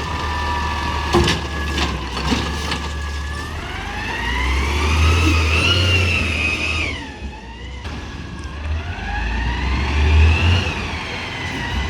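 Peterbilt 320 garbage truck with an Amrep automated side-loader body, its engine revving up and falling back twice to drive the hydraulics while the arm cycles a recycling cart. A few sharp clanks come in the first two seconds.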